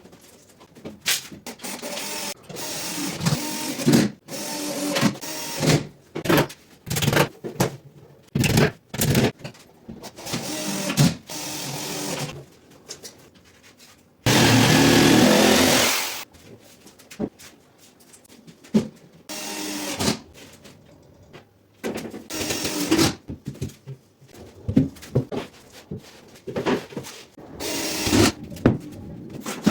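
Cabinet-making workshop noise: short bursts of a power tool and knocks of wood and hardware, stopping and starting, with one longer run of the tool for about two seconds around the middle.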